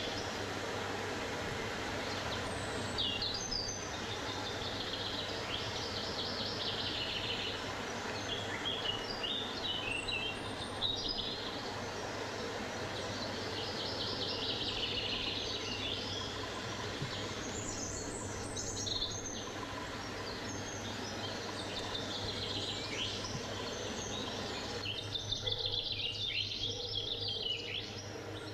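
Songbirds singing in woodland: warbled phrases and quick chirps every few seconds over a steady outdoor hiss. The hiss thins near the end.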